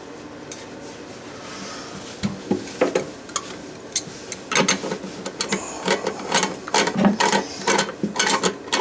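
Nut on a toilet closet bolt being tightened with a ratchet wrench: a few scattered clicks, then from about halfway a quick, steady run of ratchet clicks.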